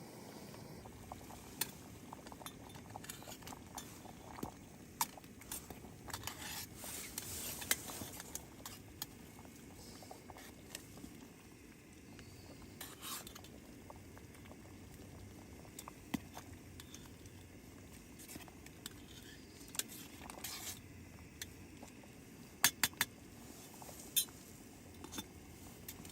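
Scattered light clinks and scrapes of utensils against cookware over a low steady hiss, with a quick run of sharp clicks near the end.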